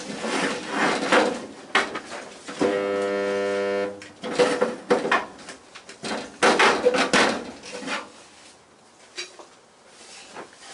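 Sheet-metal clattering and knocking from bodywork on a car shell, with a steady buzz lasting over a second about three seconds in; the knocks thin out near the end.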